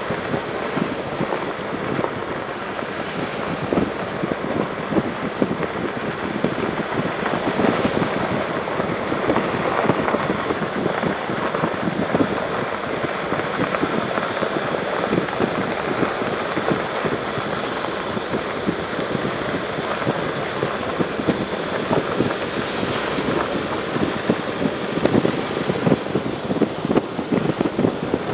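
Heavy rain falling steadily: a dense spray of small drop hits over a continuous rushing hiss.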